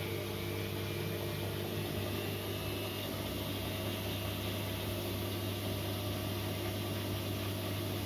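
Korting KWM 47B1060 washing machine running its spin cycle at an early, moderate drum speed: a steady motor and drum hum with no knocking or rattling.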